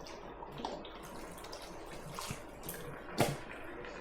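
Beef broth being poured from its container into a stew pot of vegetables, a steady liquid pour, with one sharp knock about three seconds in.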